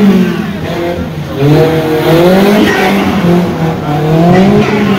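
Car engine revving hard, its pitch rising and falling several times with a brief dip about a second in.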